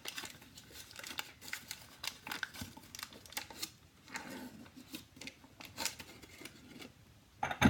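Paper wrappers being peeled off sticks of butter: irregular crinkling and tearing of the waxed paper. A louder knock comes near the end.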